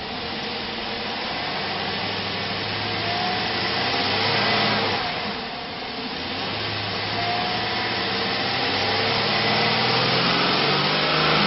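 2004 Chevrolet Avalanche 1500's 5.3-litre V8 running and being revved: engine speed climbs to a peak about four and a half seconds in, drops back, then climbs slowly again toward the end.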